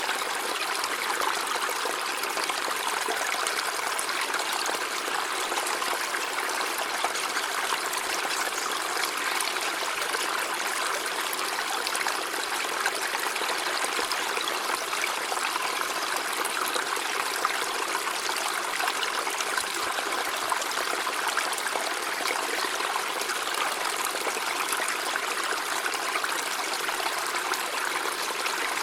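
River water running steadily over stones, an even rushing and trickling.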